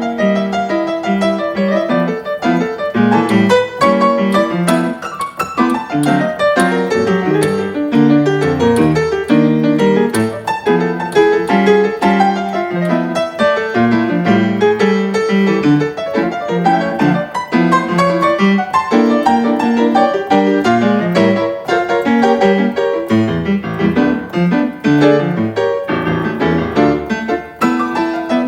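Piano playing a continuous passage of many quick notes and chords.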